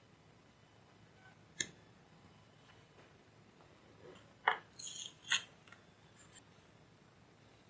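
A few sharp clicks and light metallic clinks of small tools or parts being handled on a workbench: one click, then a quick cluster of clicks and clinks a few seconds later.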